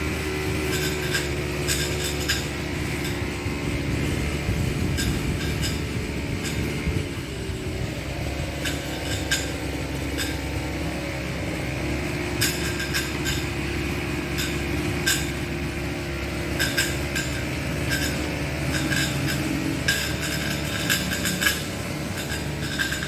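Petrol brush cutter (string trimmer) engine running steadily, its pitch dipping and rising a little, with many sharp irregular clicks from the cutting head. The trimmer's nylon line has run out.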